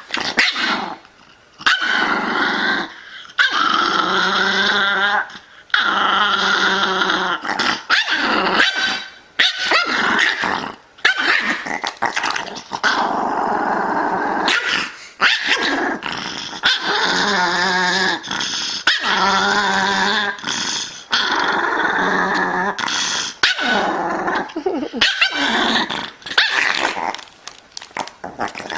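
Dogs growling, with occasional barks, in a string of short segments that cut abruptly from one to the next.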